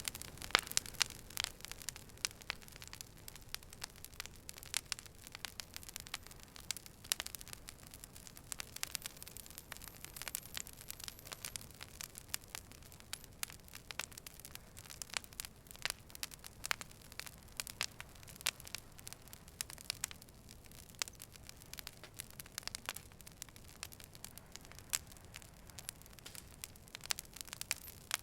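Fire crackling: many irregular small pops and snaps over a soft, steady hiss.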